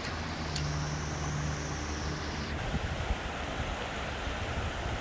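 A vehicle's engine humming under a steady rushing noise, with a high whine that cuts off about two and a half seconds in.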